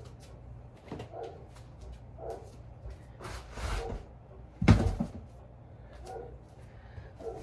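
Household things being shifted and taken down: a brief rustle, then one loud knock about halfway through, like something hard set down or bumping a cupboard.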